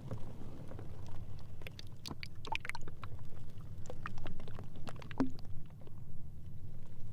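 Sea ice floes moving against each other: a steady low rumble with scattered sharp ticks and cracks and short squeaks, clustered about two to three seconds in.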